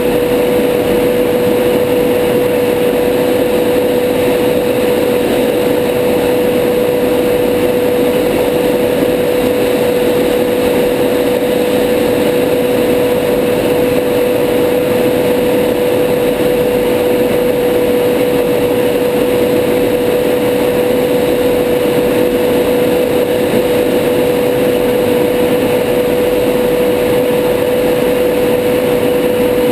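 Steady cockpit noise of a Tornado GR4 fast jet in low-level flight: a constant rush of engine and airflow noise with a steady hum running through it, unchanging throughout.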